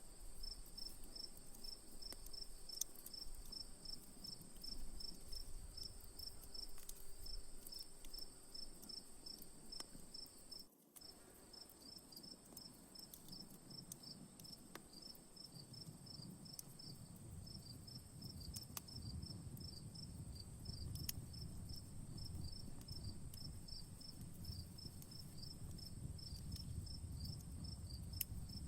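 Crickets chirping in an even, rapid pulse over a steady high insect trill, with a campfire crackling and giving sparse sharp pops. The sound drops out for a moment about 11 s in, and a low rumble of the fire swells in the second half.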